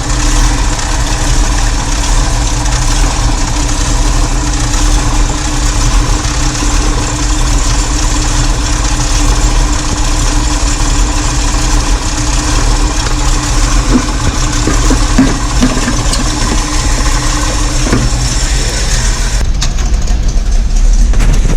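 Cammed 351 Windsor V8 in a Ford F100 idling steadily while it warms up.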